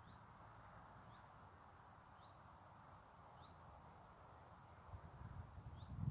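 A bird repeating a short, high, rising chirp about once a second, faint over a quiet outdoor hush. Low wind gusts hit the microphone near the end.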